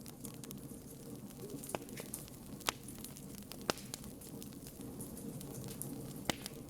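Campfire burning with a steady low rush and constant small crackles, and four sharp louder pops scattered through.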